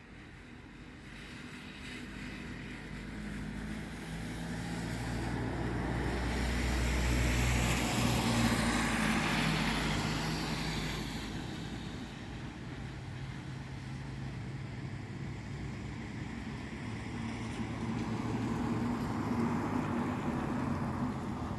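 A motor vehicle's engine passes by. It swells to its loudest about eight seconds in and fades, then rises again more softly near the end.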